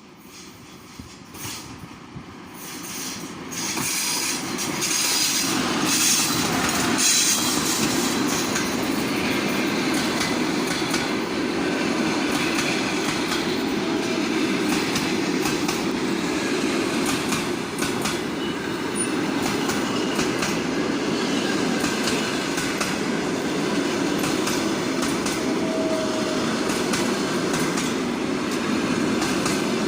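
Passenger train running past on the track, wheels clicking over rail joints over a steady rumble. It grows louder over the first few seconds as it comes close, then holds steady.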